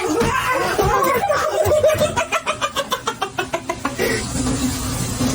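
A person laughing, in a run of quick, even bursts about five a second that ends about four seconds in.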